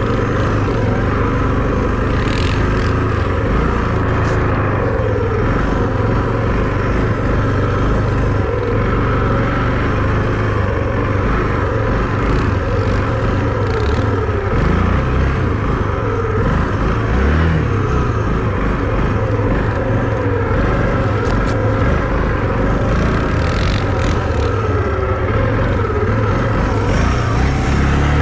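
A motor vehicle's engine running steadily while under way, with small rises and falls in engine speed.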